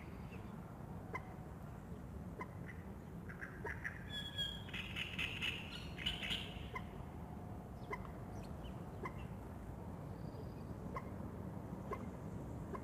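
Birds calling at dawn by a lake: a short note repeated about once a second, with a louder, busier run of calls about four to seven seconds in, over a steady low rumble.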